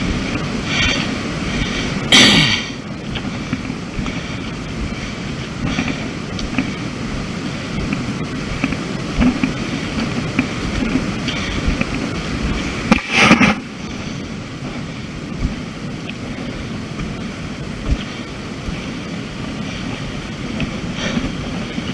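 Wind buffeting a camera microphone outdoors as a steady rumble, with two brief louder gusts, about two seconds in and about halfway through.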